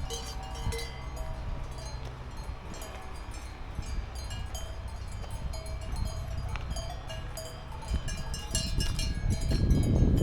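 Several cowbells on grazing cows clanking irregularly at different pitches over a low steady rumble, with a louder low rushing swell near the end.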